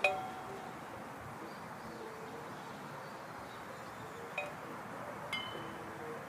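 Three light metallic clinks, each ringing briefly: the loudest near the start, then two softer ones about four and five seconds in.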